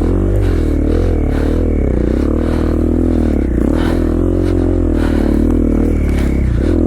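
KTM 450 XC-F dirt bike's single-cylinder four-stroke engine running under load through deep snow, its revs rising and falling every second or so.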